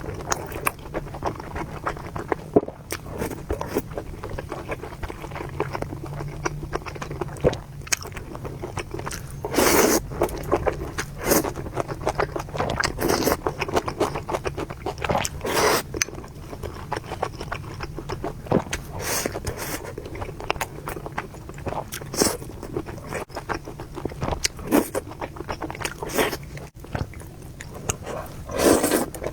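Close-miked eating of spicy noodles and meatballs: continual chewing and biting, with several louder short bursts at irregular intervals.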